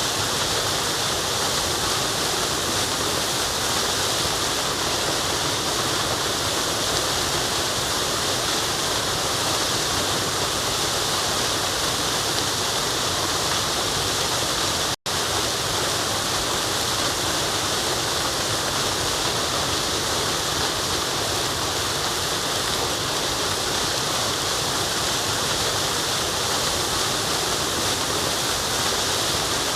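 Forest waterfall rushing steadily, cut by a momentary dropout to silence about halfway through.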